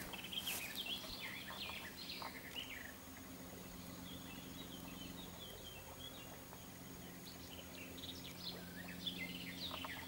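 Small songbirds singing and chirping, many quick rising and falling notes, over a faint steady low hum.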